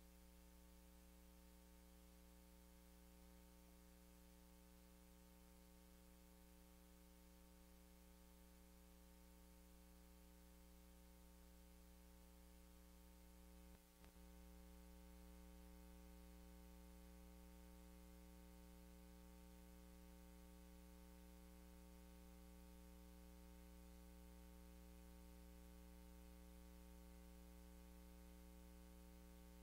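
Near silence: a steady electrical hum with faint hiss in the recording, briefly dropping out about halfway through.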